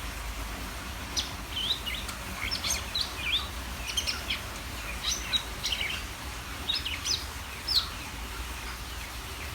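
Green leafbird (cucak ijo) singing in vigorous bursts: rapid short chirps and whistles, sharply rising and falling in pitch, over a steady low background rumble.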